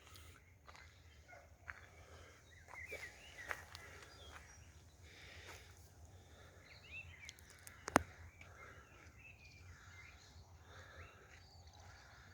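Forest birds singing faintly: scattered chirps and short warbling phrases, with one sharp click about eight seconds in.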